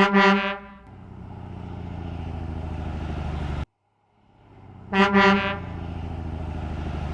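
Truck horn honking twice in quick succession, followed by a truck engine running steadily that cuts off abruptly. After a short gap the double honk and engine sound repeat.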